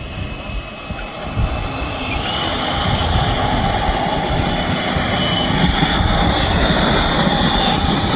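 Twin 90 mm electric ducted fans of an HSD Jets Me-262 model jet throttling up for takeoff: a rushing jet whine that grows louder over the first three seconds, then holds steady, with a high whine rising slightly near the end.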